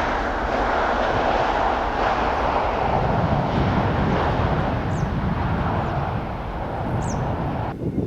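Jet airliner's engines on landing approach: a steady roar that slowly fades away. Two short high falling chirps sound in the second half, and the roar cuts off abruptly just before the end.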